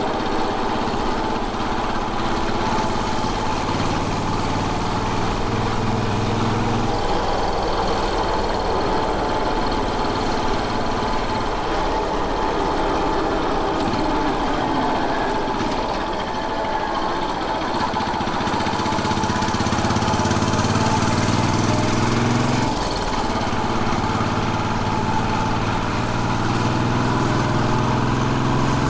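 Royal Enfield Bullet 500's 499 cc single-cylinder engine running steadily while the bike is ridden. Its pitch shifts in steps several times, dropping about seven seconds in and again around twenty-three seconds.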